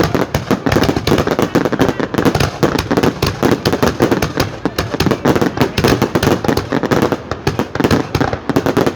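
Fireworks going off in a rapid, continuous barrage of bangs and pops, many a second with no let-up.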